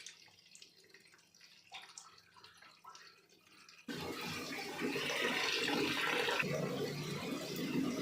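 Water rushing in a washing machine, starting abruptly about four seconds in after a few faint clicks.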